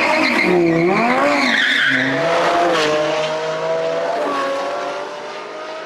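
Audi R8 V10 Spyder's V10 through a Milltek Super Sport exhaust, revved up and down several times in quick blips, then held at a steady note that fades as the car pulls away.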